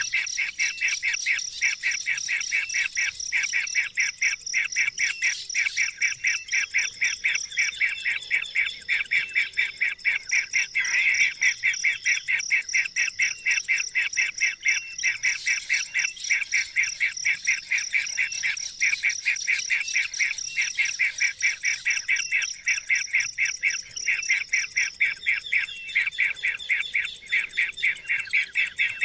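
A bird calling in a rapid, unbroken series of short, high chirps, about four a second, keeping up a steady rhythm.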